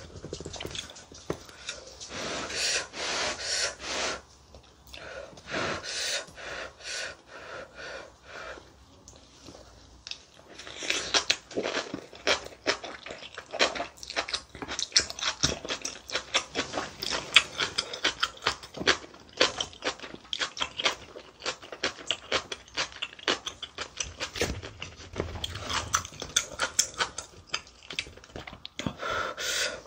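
Close-miked chewing of spicy kimchi and rice, full of quick clicking mouth sounds that come sparsely at first and crowd together from about a third of the way in.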